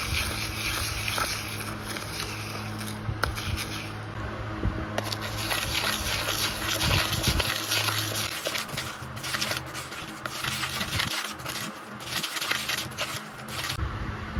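Food being prepared by hand: irregular scraping with many small clicks and taps, over a steady low hum.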